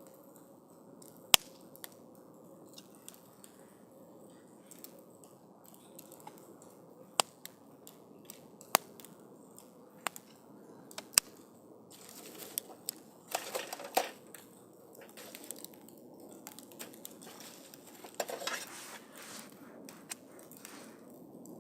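Wood campfire burning, with a low steady hiss and sharp, scattered pops. Two short spells of denser crackling come about two-thirds of the way in and again near the end.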